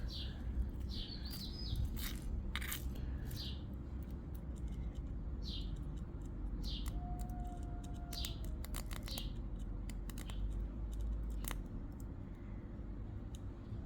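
Irregular crackling and snapping of sparks where a 250 W audio amplifier's output is shorted through a pencil's graphite core, over a steady low hum. Birds chirp several times in the background.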